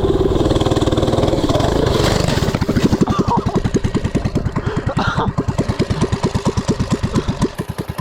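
Coleman mini bike's small single-cylinder engine running at full throttle up a steep hill. A few seconds in, its beat slows into distinct chugs as it lugs under the load.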